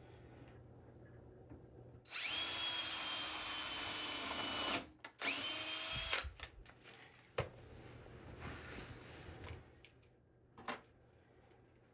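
Power drill running in two bursts: a steady run of about two and a half seconds, then a shorter one of about a second that winds up in pitch, followed by a few light knocks.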